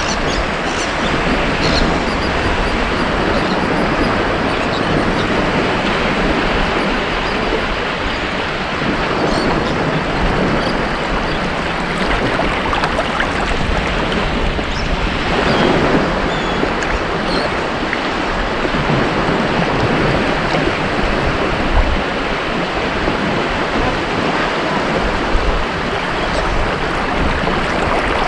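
Ocean surf washing onto a beach: a steady rush of breaking waves, swelling briefly about halfway through.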